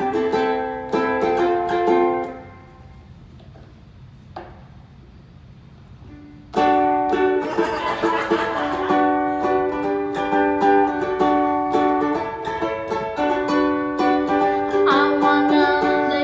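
Ukulele strumming chords. The strumming stops about two and a half seconds in, and after a pause of about four seconds it starts again abruptly and keeps a steady rhythm.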